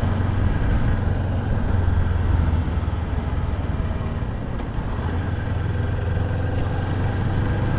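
Motorcycle engine running at a steady cruising speed, a low even hum under a haze of wind and road noise.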